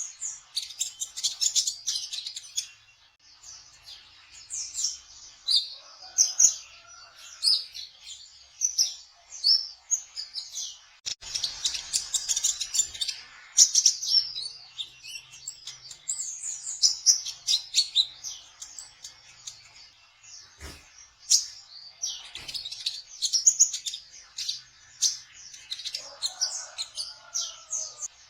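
Kolibri ninja (a sunbird) singing its trotol song: rapid, high-pitched chirps and fast trilled runs in quick succession, with a few lower gliding notes now and then.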